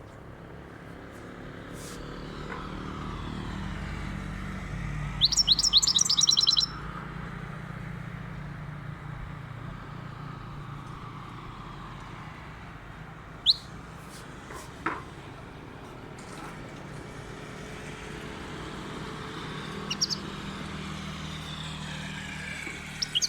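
European goldfinch calling: a quick run of high twittering notes lasting under two seconds about five seconds in, then a few single short calls spaced several seconds apart, over a steady low background hum.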